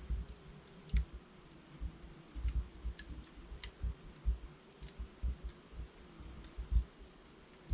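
Logs burning in a fireplace, crackling with irregular sharp pops and soft low thuds.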